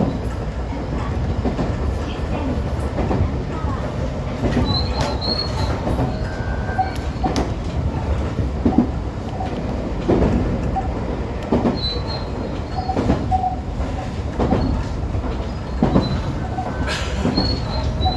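125 series electric railcar running along the line: steady wheel-and-rail rumble with a clack from the rail joints about every second and a half, and brief faint wheel squeal now and then.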